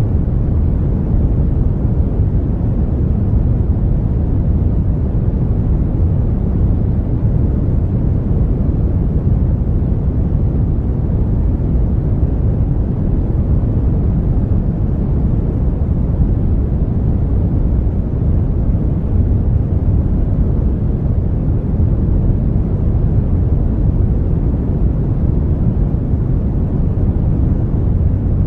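Brown noise: a steady, deep, even hiss with most of its energy in the low end, unchanging throughout.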